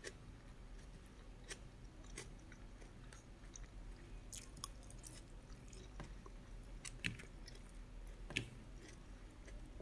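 A person chewing food close to the microphone, with scattered short sharp clicks; two louder clicks come in the last few seconds.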